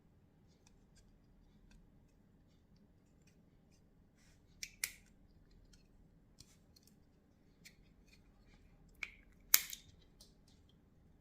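Cutters snipping thin headlight wires: two close pairs of sharp snips, about halfway through and near the end, with faint small handling clicks between.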